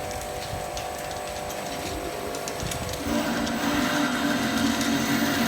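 Automatic ultrasonic bottle washing machine running, a steady mechanical hum with scattered light clicks. About three seconds in, a louder steady hum with a higher whine over it starts up and keeps going.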